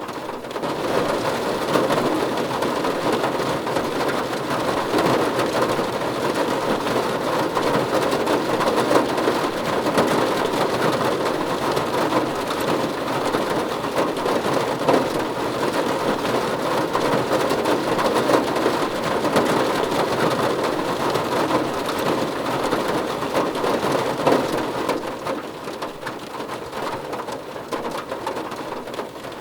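Steady, heavy rain on a car roof: a dense patter of drops on the metal panel. It picks up about a second in and eases off a little near the end.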